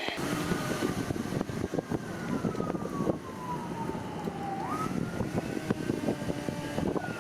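Emergency-vehicle siren wailing slowly, one long falling tone that jumps back up a bit past halfway and then falls again near the end. It sits over a steadier rush of wind noise with scattered small ticks and taps.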